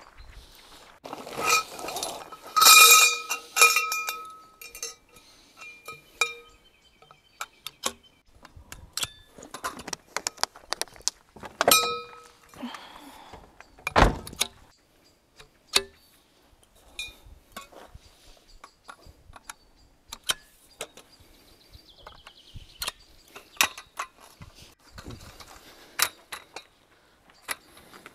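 Metal items clinking and clattering as they are handled, with several ringing metallic strikes about one to four seconds in, then scattered knocks and clicks.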